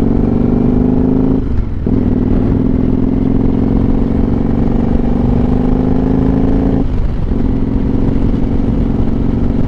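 Motorcycle engine accelerating under load, its pitch climbing steadily and then dropping briefly twice, about a second and a half in and about seven seconds in, as the rider shifts up a gear.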